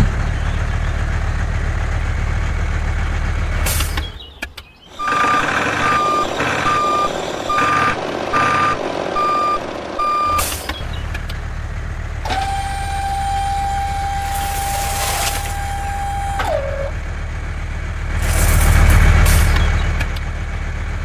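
Low engine rumble of a vehicle, then a reversing beeper sounding a run of short evenly spaced beeps, about one and a half a second. After that comes a steady high whine that dips in pitch and stops, and a second whine starts near the end.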